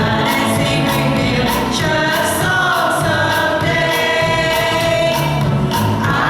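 A church congregation singing a gospel hymn together, with instrumental accompaniment keeping a steady beat.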